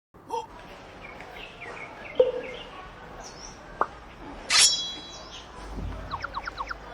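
Birds chirping and calling: scattered short chirps, one louder call about four and a half seconds in, and a quick run of about seven falling notes near the end.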